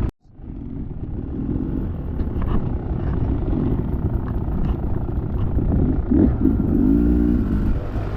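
Dirt bike engine running at low revs while crawling over rocks, with a few light clicks and knocks. The revs briefly rise and fall near the end.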